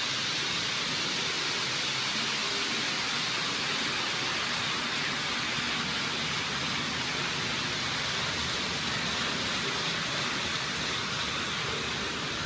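A steady, even hiss with no rhythm or pitch.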